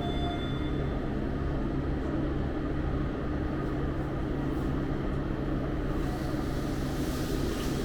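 Steady low mechanical rumble with a constant hum, with a brief high beep in the first second.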